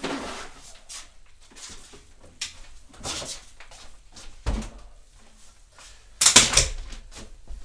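Handling noises: scattered clicks and knocks, a low thump about four and a half seconds in, and a loud scraping rustle lasting about half a second a little after six seconds.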